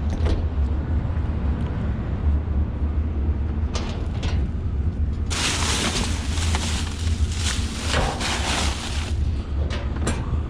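Wind buffeting a microphone with no windbreaker: a steady low rumble, with louder bursts of noise, the longest from about five to nine seconds in.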